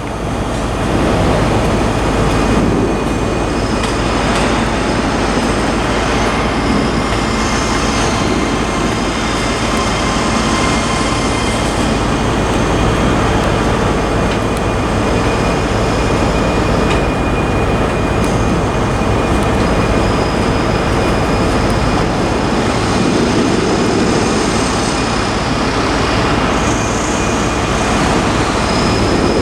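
Class 385 electric multiple unit arriving slowly into a terminus platform: a steady rumble of wheels on rails under a hum with a few thin high tones.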